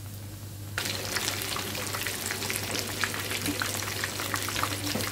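Egg-and-breadcrumb-coated chicken drumsticks frying in hot oil in a pan. A soft sizzle turns abruptly, under a second in, into a louder, dense crackle of small spattering pops, over a steady low hum.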